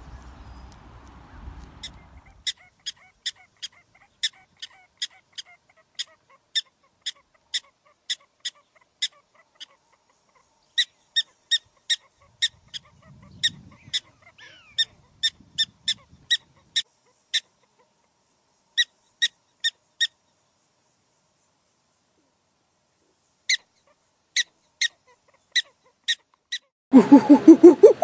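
A bird giving a long run of short, sharp, high calls, about two or three a second, with a few brief pauses. A louder, lower call starts near the end.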